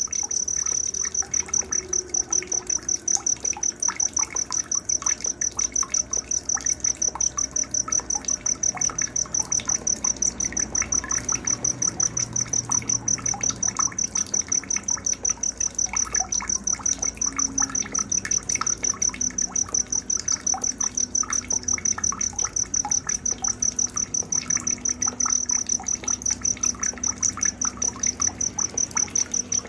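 A cricket chirping in a steady, evenly pulsed high trill that never stops, over a faint night-time background of small ticks and a low rumble.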